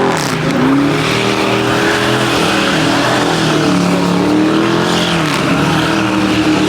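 A car engine held at high revs with tyres screeching, as in a burnout or donut. The engine pitch dips and climbs back about half a second in and again near the end.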